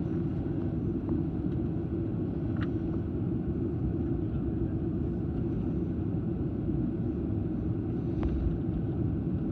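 Steady low rumble inside a jet airliner's passenger cabin on the ground before takeoff, with a few faint clicks.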